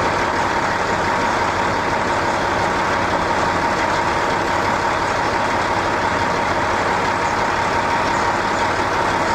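A steady mechanical drone with a thin, constant whine running through it, unchanging in level.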